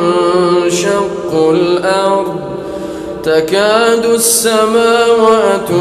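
A man reciting the Quran in a slow, melodic tajweed chant, drawing out long held notes with two short hissing consonants.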